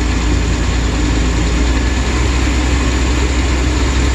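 2008 Chevrolet Express van engine running steadily in drive under load. It has a misfire on cylinder 1 that the mechanic reads as a lean misfire.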